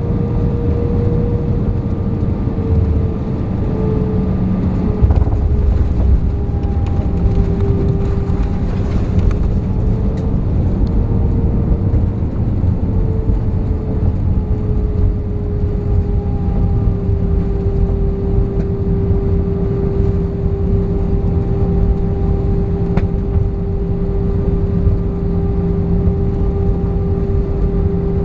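Cabin noise in an Airbus A318 taxiing after landing: a steady low rumble with the jet engines' whine held at a low, slightly wavering pitch.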